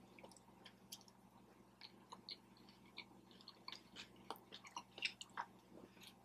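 Faint, close-up chewing of food: soft, irregular wet mouth clicks and smacks, a little busier in the second half.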